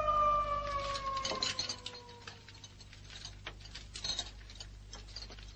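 A long wolf howl, sliding slowly down in pitch and fading out about two and a half seconds in, followed by faint irregular clicking and ticking.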